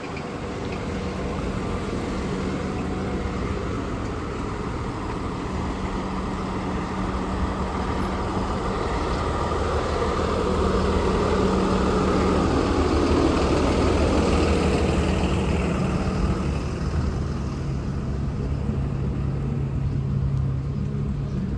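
Street traffic: a steady engine hum, with a vehicle passing that grows louder toward the middle and then fades.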